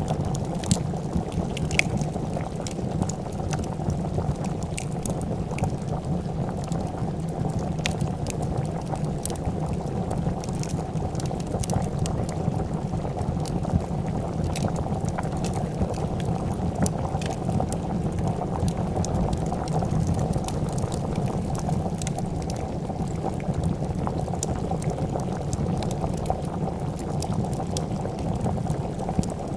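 A pot of soup bubbling at a steady, continuous boil, with scattered sharp pops and crackles from a wood fire.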